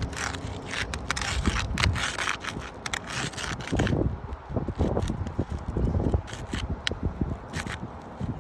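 Putty knife scraping under asphalt shingles as they are pried up, the shingles' sealant strip crackling and tearing loose. Dense crackles in the first half give way to scattered scrapes and knocks.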